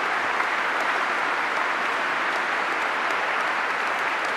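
Steady, sustained applause from a large audience clapping together.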